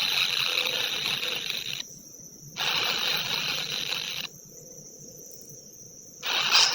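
Steady high-pitched insect buzzing that cuts out abruptly twice, once for under a second and once for about two seconds.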